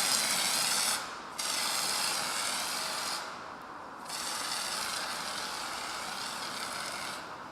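Paint spray hissing out in three long bursts, each cut off sharply: one ends about a second in, then two more start a moment later and run about two and three seconds.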